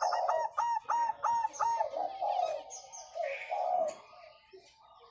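Diamond doves cooing and calling: a quick run of about seven short repeated notes in the first two seconds, then softer low coos that fade out near the end.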